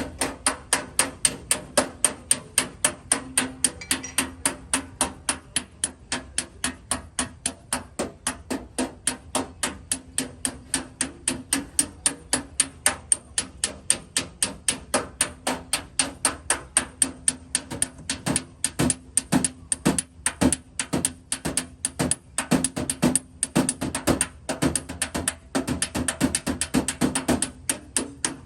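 Small hammer tapping rapidly on a car's sheet-metal body panel, about three to four light taps a second, steady at first and less even near the end: paintless dent repair, tapping down the high spots of a dent.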